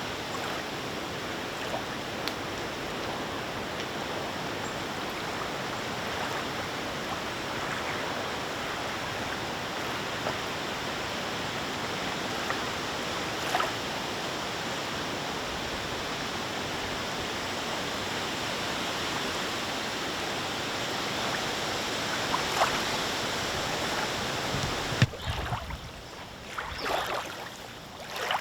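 Steady rushing of wind and small waves on a breezy lake, with occasional light splashes. About three seconds before the end it gives way to quieter, uneven lapping with a few splashes.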